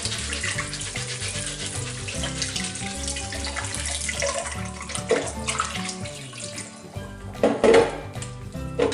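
Tap water pouring through soaked rice in a mesh strainer and splashing into a stainless steel sink as the rice is rinsed of its starch, with background music underneath. It grows louder for a moment near the end.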